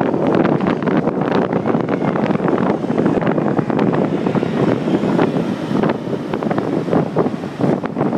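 Wind buffeting the microphone of a handlebar-mounted iPhone 4 on a moving bicycle, a loud steady rush, with many small knocks and rattles as the bike and mount are jolted over the road.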